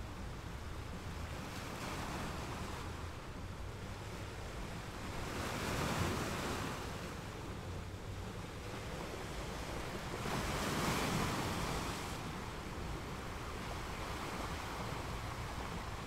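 Ocean surf: small waves breaking and washing up a beach over a steady hiss of sea, swelling louder about six seconds in and again around eleven seconds.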